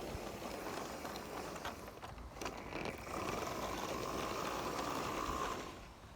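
Battery-powered G-scale toy locomotive running on its track: the motor and gear drive whir, with small clicks. A steady high tone joins in about halfway and stops shortly before the end.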